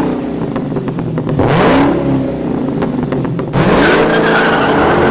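Car engine revving: it revs up about a second and a half in, then again at about three and a half seconds, holding briefly before the pitch falls away near the end.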